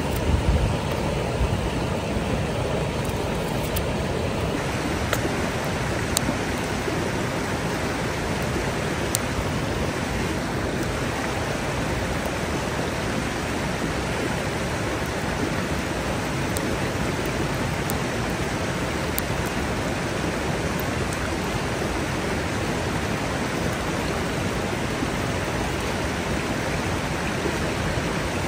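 Paneer frying in very hot oil: a steady sizzle with a few sharp pops.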